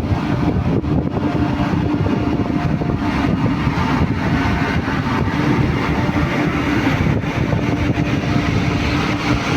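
Express passenger train running at speed: a steady, loud rumble of wheels on the track with a constant hum underneath.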